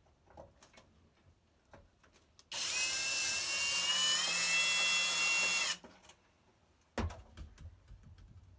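Power drill-driver running for about three seconds, its whine rising slightly, as the ceramic thermocouple block is unfastened from an electric kiln. About a second later there is a sharp knock, then small clicking handling sounds.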